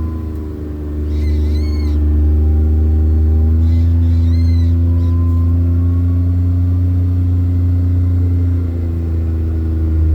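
A motor vehicle's engine running steadily with a deep hum, with two short high squeaks about one and four seconds in.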